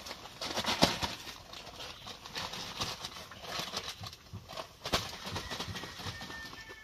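Irregular knocks and clatter of wooden formwork boards being worked loose and handled, with two sharper knocks about a second in and near five seconds in.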